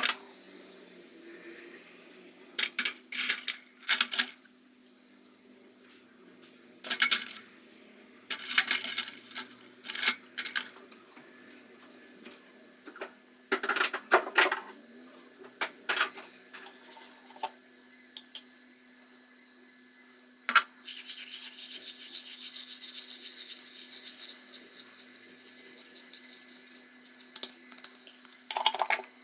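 Kitchen work sounds: scattered clicks and knocks of utensils and dishes, then a steady rapid rasping noise for about six seconds, followed by a few more knocks.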